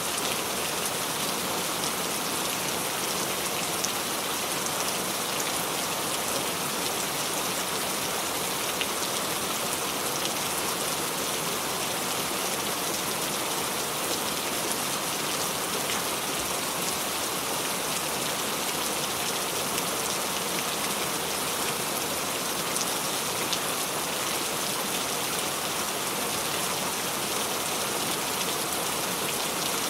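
Steady rain falling on a surface, an even hiss of many drops with faint scattered individual drop ticks.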